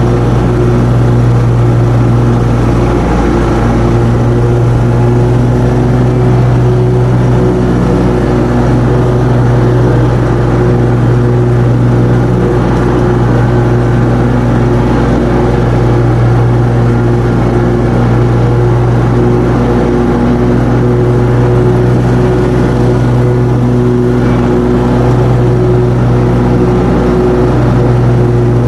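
Commercial lawn mower engine running steadily at working speed while mowing, a constant loud hum with no change in pitch.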